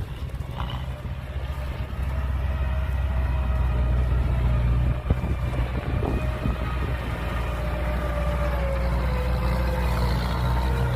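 Heavy diesel earthmoving machinery running steadily under load, with a low engine drone and a whine that slowly drifts lower. A couple of short clanks sound around the middle.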